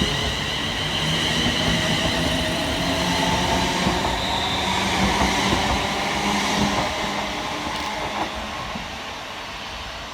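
Two coupled ScotRail Class 380 Siemens Desiro electric multiple units pulling out of the station: traction motor whine over wheel and rail noise, fading away near the end.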